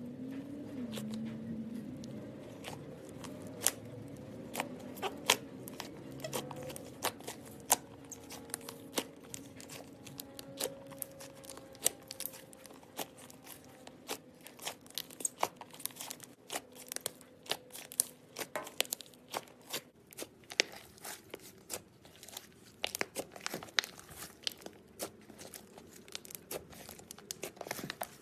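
Butter slime being pressed, stretched and squished by hand, giving irregular small clicks, pops and soft crackles.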